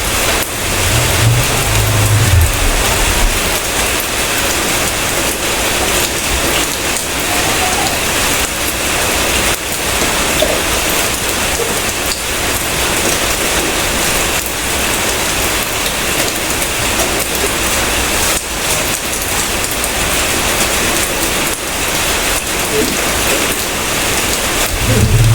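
Steady rain falling, an even hiss of many drops, with a low rumble in the first couple of seconds.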